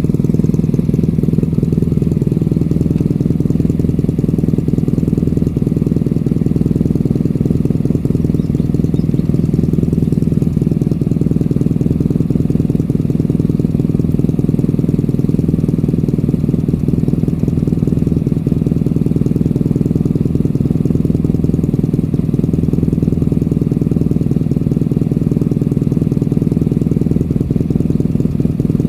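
BMW R nineT Racer's boxer twin idling steadily through a LeoVince true dual aftermarket exhaust, with a deep, even exhaust note and no revving.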